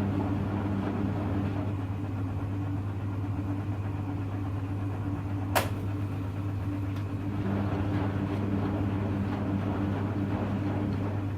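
Hoover Electra front-loading washing machine running, a steady motor hum with one sharp click about halfway through.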